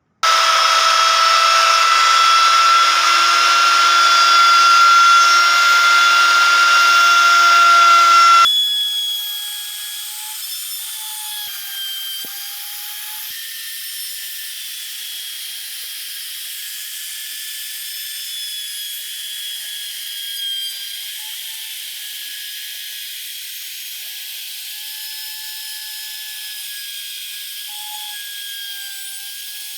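An electric power tool running with a steady, high whine; about eight seconds in it cuts abruptly to a quieter, lower whine that wavers slightly in pitch as the tool works on.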